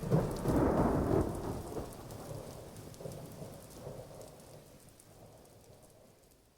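Thunder rumbling over falling rain, loudest in the first second and then fading out gradually.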